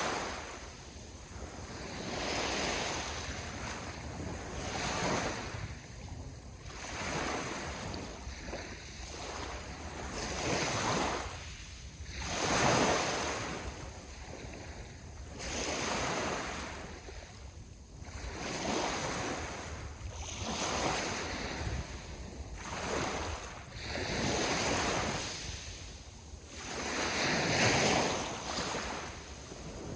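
Sea waves breaking on the shore, one surge every two to three seconds, with some wind on the microphone.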